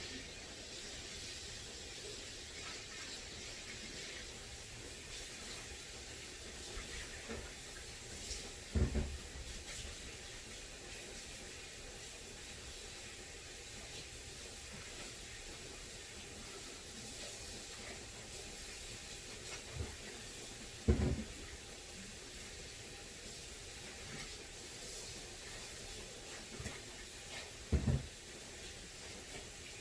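Tap water running steadily into a sink as things are washed, with three louder knocks of items against the sink: about a third of the way in, two-thirds of the way in, and near the end.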